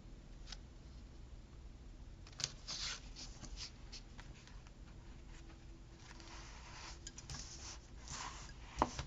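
Paper sticker sheets being handled, with soft rustling and scattered small clicks, and one sharper tap near the end.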